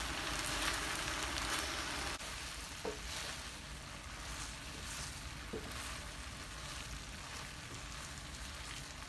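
Chicken pieces in a yogurt and spice mixture sizzling in an uncovered pot over high heat, the liquid cooked down so they are frying. The sizzle drops a little about two seconds in, with a couple of faint ticks after.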